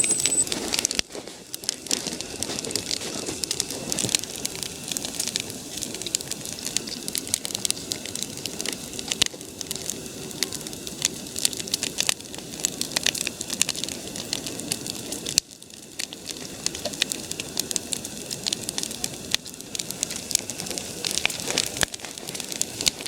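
Large wood bonfire, burnt down to its last remains, crackling: dense irregular pops and snaps over a steady hiss of flame.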